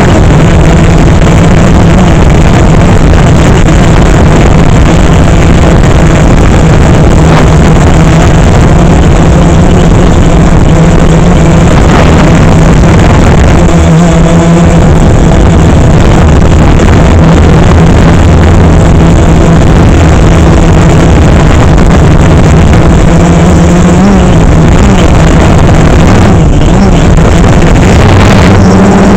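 DJI Phantom 3 quadcopter's motors and propellers buzzing loudly and steadily in flight, with small shifts in pitch near the end as the motor speed changes.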